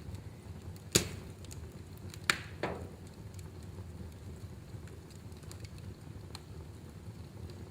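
Wood fire burning in a fireplace: a steady low rumble of flames with scattered faint crackles and two loud sharp pops about a second and a half apart near the start.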